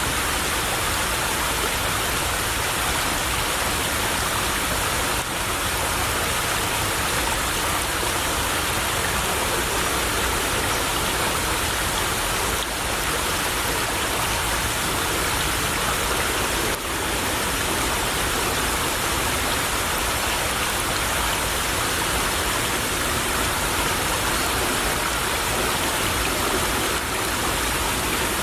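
Shallow stream water running steadily over stones: a continuous, even rush of water.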